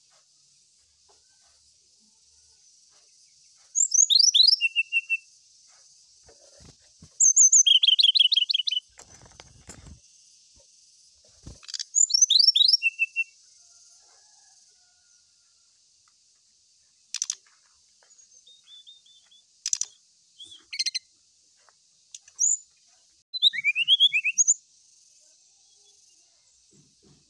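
Brown-chested jungle flycatcher singing: several phrases of rapid, high, falling whistled notes a few seconds apart, then shorter calls in the second half, with a couple of sharp clicks among them. A faint steady high hiss lies underneath.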